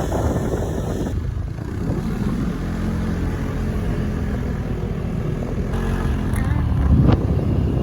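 Small motor scooter engine running steadily while being ridden on the road.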